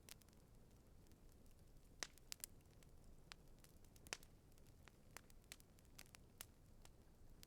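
Campfire crackling quietly: scattered sharp pops and snaps over a faint low hiss, the loudest pops about two and four seconds in.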